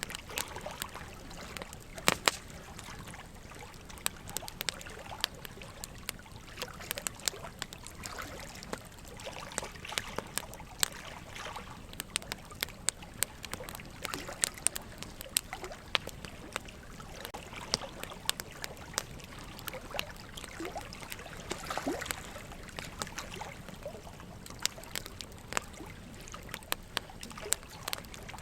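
Wood fire crackling, with many sharp, irregular pops and snaps, over a steady trickle of running water.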